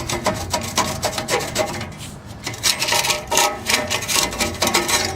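Repeated rasping, scraping strokes from hand-tool work on a car's exhaust, several strokes a second.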